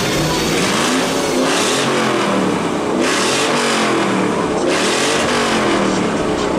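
A 2004 Ford Mustang GT's 4.6-litre V8 with a loud aftermarket exhaust being revved hard about three times, the engine note climbing and falling back with each blip. This is the exhaust-competition winner, metered at 117.1 dB from six feet.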